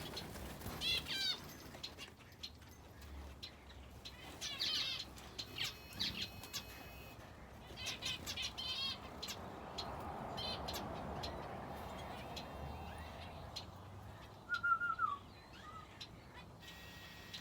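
Aviary finches and a canary calling in short bursts of quick, high chirps, with wings fluttering and small clicks from birds moving about. About fourteen seconds in comes a brief falling call, louder than the rest.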